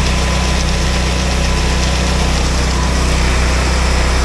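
Western Star grain truck's diesel engine running steadily with a deep, even hum.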